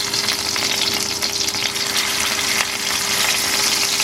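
Marinated chicken pieces frying in hot oil in a pan: a steady sizzle with many small crackling pops.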